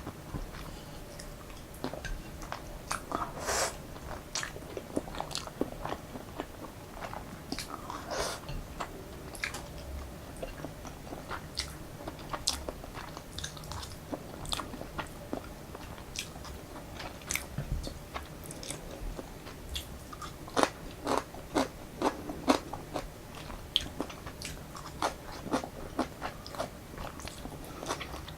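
A person chewing and eating truffle-oil Jjapaghetti (instant black-bean-sauce noodles), with many short, irregular mouth smacks and clicks.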